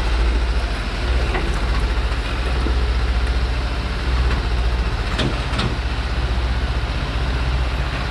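Heavily loaded Thaco truck, carrying over 20 tonnes of acacia logs, coming down a steep hill with its engine running in a steady, deep rumble. A few short knocks from the truck come about five seconds in.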